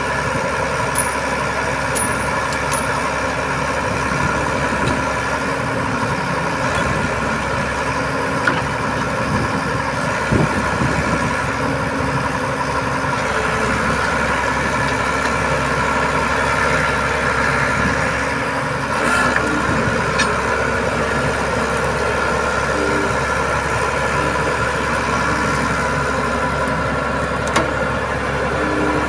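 Heavy truck's diesel engine running steadily at idle, with a few short metallic knocks.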